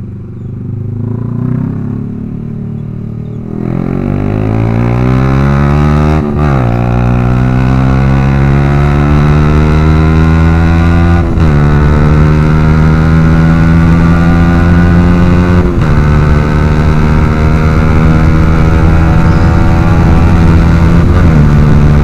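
Yamaha R15 V3's single-cylinder engine through a Proliner aftermarket exhaust, running low at first, then pulling away and revving up through the gears with three quick drops in pitch at the shifts, about 6, 11 and 16 seconds in, before holding a steady cruise.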